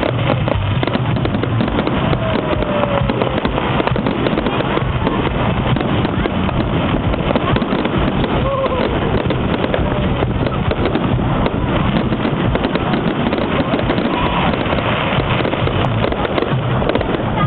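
Fireworks going off continuously in a dense, steady run of crackling and popping, with crowd voices mixed in.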